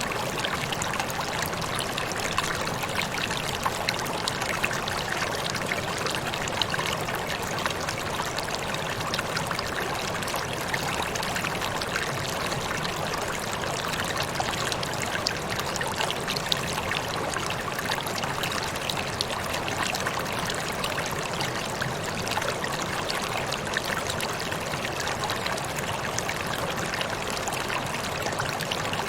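Water splashing and rushing steadily down a small waterfall, an even splashing with fine droplet spatter.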